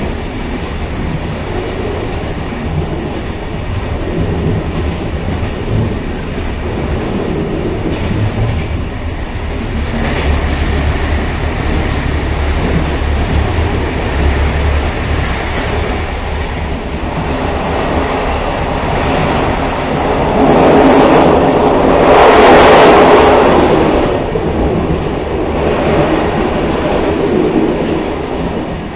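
Railcar running along the track: a steady rumble of wheels on rails, growing into a louder, hissier swell about twenty seconds in that fades again a few seconds later.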